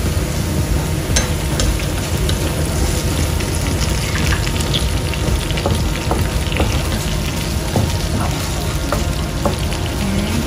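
Minced garlic sizzling steadily in hot oil and soy sauce in a frying pan while a wooden spatula stirs it, with many small pops and ticks through the hiss.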